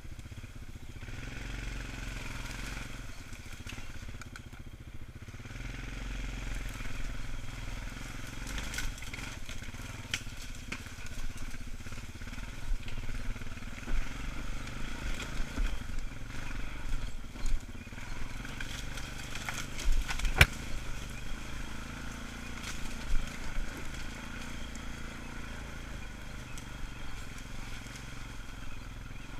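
ATV engine running steadily at low trail speed, with scattered sharp knocks and crackles, the loudest about twenty seconds in.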